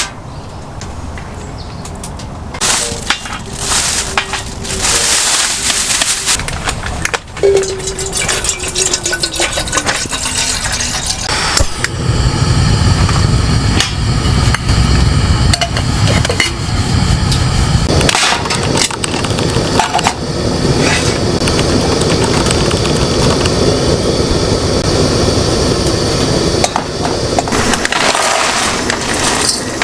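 Wood cracking and snapping in repeated sharp cracks, with a steady rushing noise that comes up loud about twelve seconds in.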